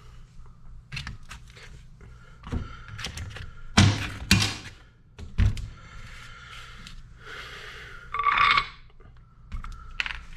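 Parts being handled and set down on a workbench: several separate knocks, the two loudest close together about four seconds in, then a short rattling scrape near the end.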